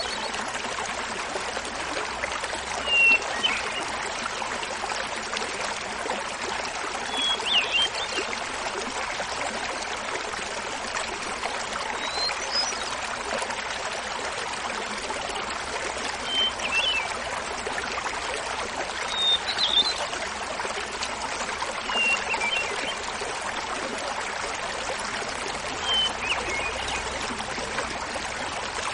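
Small mountain waterfall splashing steadily, with a hermit thrush singing short flute-like phrases over it, about seven in all, one every three to four seconds, each at a different pitch.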